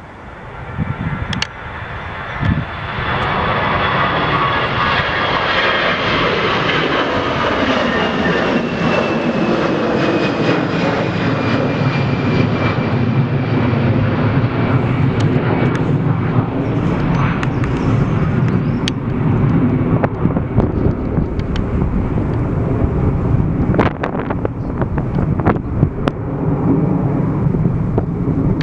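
A jet airliner's engines passing close by. The sound builds over the first few seconds, the engine whine falls in pitch as the aircraft goes past, and a steady low rumble carries on to the end with scattered crackles.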